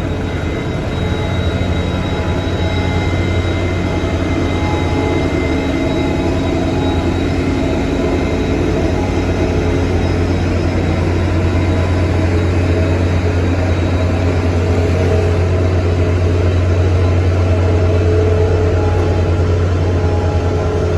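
Heavy road-construction machinery with a diesel engine running steadily under load: a deep, even hum with a few steady tones over it.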